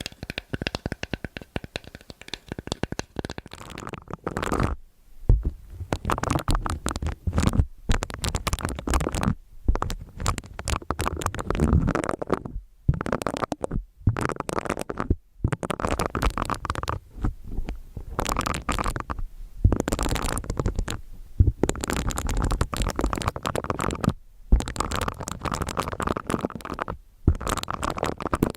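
Close-miked scratching and rubbing with a low rumbling undertone, in stretches of a few seconds broken by short pauses.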